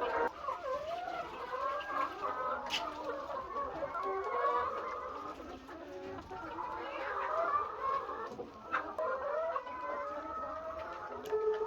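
A large flock of laying hens clucking and calling, many birds overlapping continuously, with a couple of sharp clicks.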